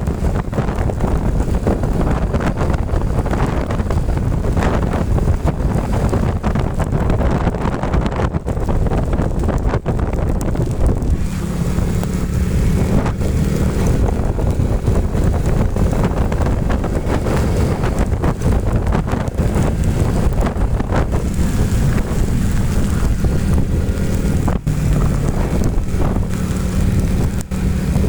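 Motorcycle riding, with heavy wind buffeting on the microphone and the engine's steady note coming through, plainest for a few seconds about a third of the way in and again over the last several seconds.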